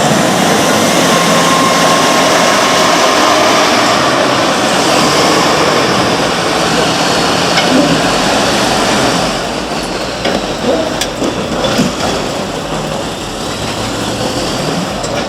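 Heavy construction machinery running, a steady engine-and-mechanical noise; from about two thirds of the way in, a few sharp knocks or clanks.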